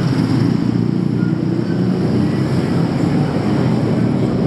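Steady, loud rumble of motor traffic engines in a city street.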